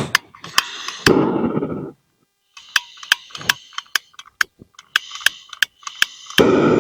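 A quick, uneven run of sharp knocks and clicks, several a second, with short bursts of rustling noise about a second in and again near the end.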